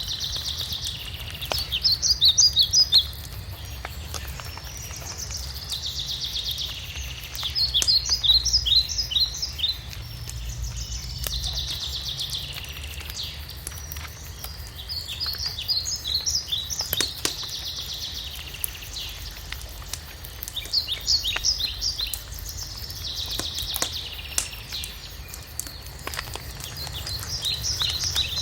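A songbird singing the same phrase about every five seconds, a buzzy trill followed by a quick run of short falling notes, over a fireplace fire with scattered crackles and a steady low rumble.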